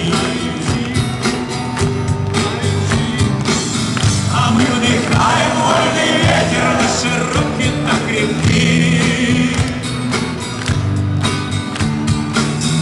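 Rock band music, an instrumental passage with no lead vocal: a steady beat with bass and a melodic lead line.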